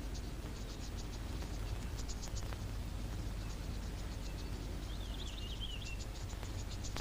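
Crickets or similar insects chirping in short, high, rapid pulses over a low steady hum, with a brief high twittering call about five seconds in.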